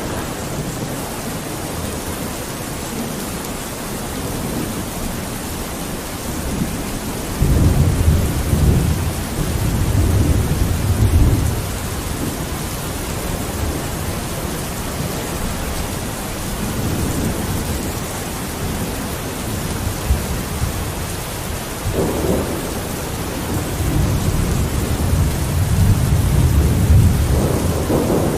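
Steady rain falling, with two long, low rolls of thunder: one about seven seconds in and another starting about twenty-two seconds in.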